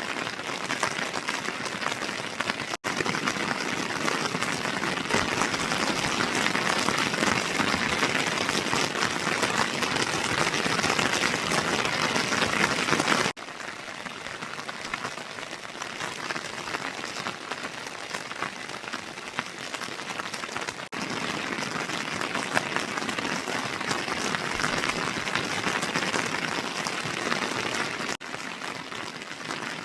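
Heavy rain falling steadily, an even hiss. The loudness jumps up or down suddenly a few times, at about 3, 13, 21 and 28 seconds.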